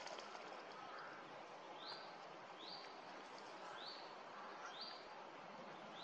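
A bird repeating a short, high call about once a second, starting about two seconds in, over a faint, steady outdoor hiss.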